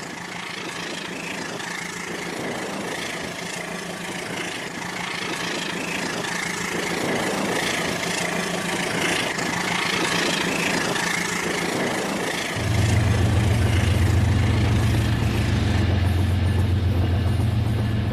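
Battery-powered Rail King toy train running along its track: a steady motor-and-wheel noise. About two-thirds through, a louder low hum joins in and holds steady.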